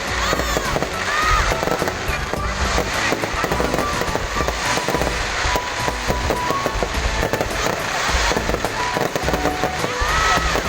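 Fireworks going off in rapid succession: a dense run of bangs and crackling pops.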